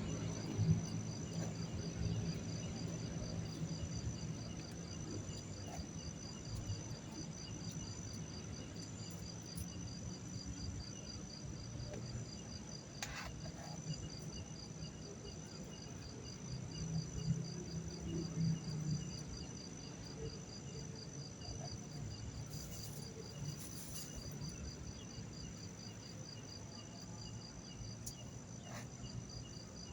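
Night insects chirping steadily, a fast high pulsing chirp over a continuous high tone, with a low rumble underneath.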